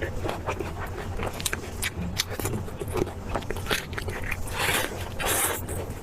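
Close-miked chewing and biting of meat: a steady run of wet mouth clicks and crunches, with louder crunching bites a little after the midpoint.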